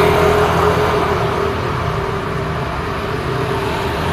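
City street traffic: car engines and tyre noise blending into a steady rush, a little quieter in the middle before building again.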